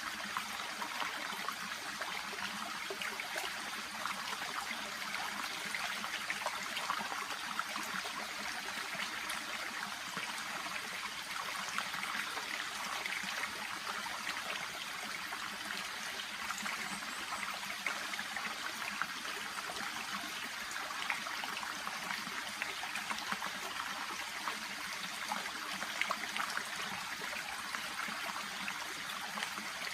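Small shallow brook babbling and trickling steadily, an even rush of water with fine splashing detail.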